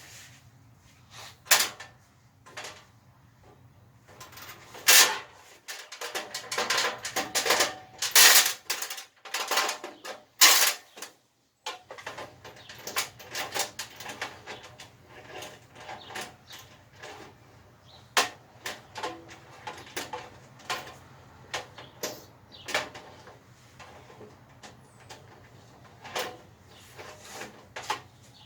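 Irregular clicks, knocks and rattles of a welder and its cables being handled and set onto a metal welding cart, with a few louder clacks in the middle.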